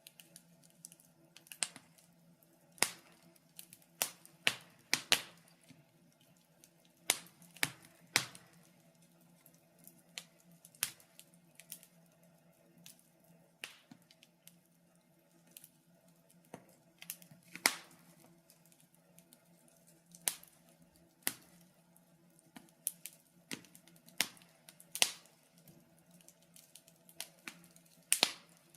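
Fireplace fire crackling: irregular sharp pops and snaps of varying loudness, some close together, over a faint steady hum.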